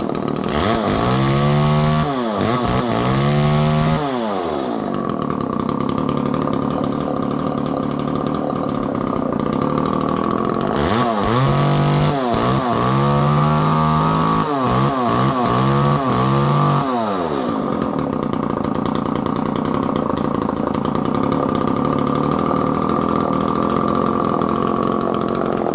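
Homelite Super 2 chainsaw's small two-stroke engine running, revved up and down several times near the start and again through the middle, idling steadily in between and toward the end. It revs out cleanly, running well.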